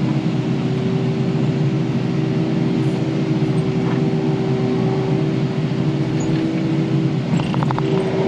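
Diesel engine of heavy earthmoving equipment running steadily at working speed, with a constant hum.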